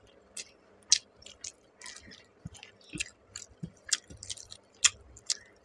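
Close-up chewing of a mouthful of rice and curry eaten by hand: irregular short mouth clicks and smacks, with fingers mixing rice on a steel plate.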